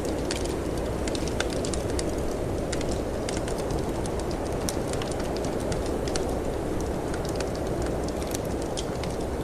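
Wood fire crackling in a fireplace, with frequent irregular sharp pops and snaps, over a steady low rush of snowstorm wind.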